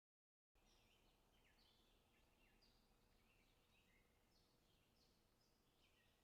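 Very faint birdsong, most likely part of a background ambience track: many short chirps that fall in pitch, over a steady hiss. It starts suddenly about half a second in, after dead silence.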